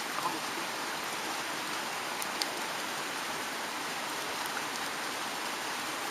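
Steady rushing of a mountain stream, with a few faint ticks over it.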